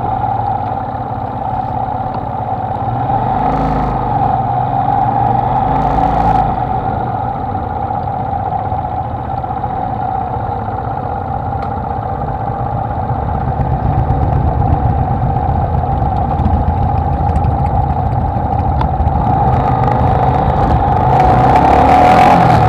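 Honda XLR125R's single-cylinder four-stroke engine running steadily under way, with wind and road noise, as a continuous drone that grows somewhat louder in the second half and again near the end.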